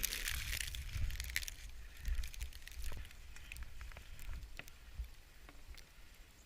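Snow crunching and crackling in scattered soft clicks over a low, steady rumble of wind on the microphone.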